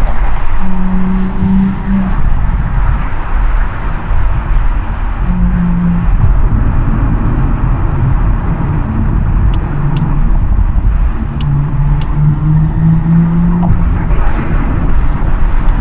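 Audi S5 Sportback's 3.0-litre V6 with an aftermarket downpipe and RS exhaust, heard from inside the cabin under way, its loud exhaust note rising and falling as the driver works the throttle. A few sharp ticks sound around the middle.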